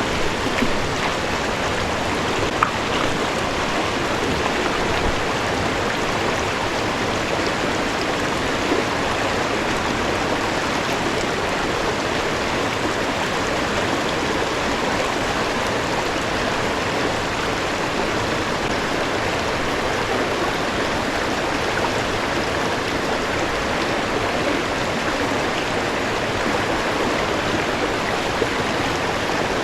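Creek water rushing steadily over rocks at a small waterfall: an even, constant rush with no break.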